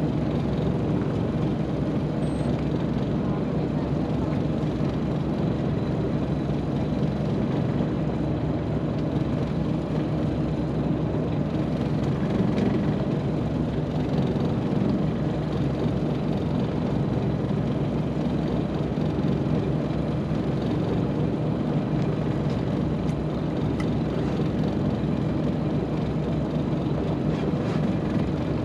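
A boat's engine running steadily, a low even drone with no change in pace.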